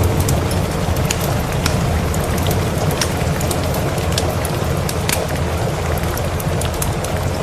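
Steady rain with a low rumbling undertone, mixed with frequent sharp crackles and pops of a wood fire burning in a fireplace.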